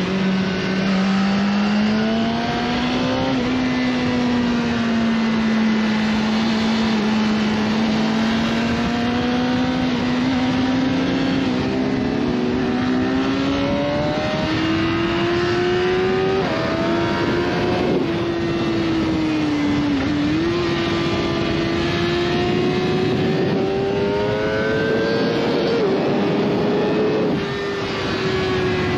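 BMW S1000RR's inline-four engine running hard under load, its pitch climbing slowly, with several short dips in pitch in the second half that fit gear changes.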